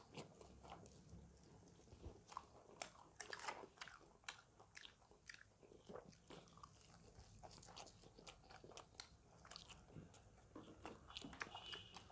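Quiet biting and chewing of crispy fried chicken, with irregular little crunches and crackles of the coating.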